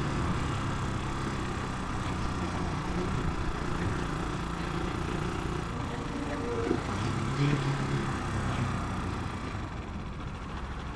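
Italika 250 motorcycle engine running steadily while riding slowly through traffic, with road and wind noise on the bike-mounted microphone; a stronger engine note comes in for a couple of seconds past the middle.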